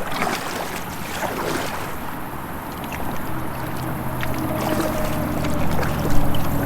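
Kayak on high, fast creek water: the water rushes, with small splashes and knocks from the paddle and hull, and wind on the microphone. A low steady hum comes in about halfway through and grows a little louder.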